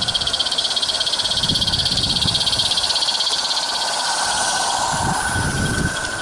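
Small live steam garden railway locomotive on 32mm track, chuffing fast and evenly with a hissy exhaust.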